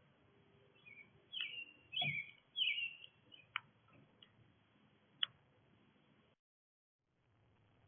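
Small birds calling: a run of three short chirps with quick pitch slides about a second and a half in. A few sharp ticks come through the first five seconds, and the sound drops out completely for under a second near the end.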